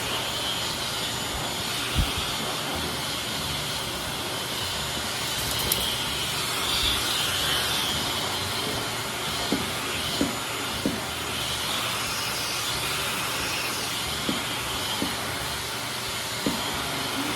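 High-velocity dog grooming dryer blowing steadily, a continuous rushing hiss of forced air, with a few light knocks scattered through it.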